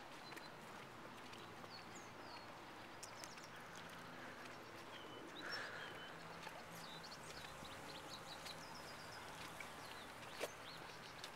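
Quiet outdoor ambience with a steady background hiss, and small birds chirping in short, high, gliding calls through the middle. A single sharp tap near the end.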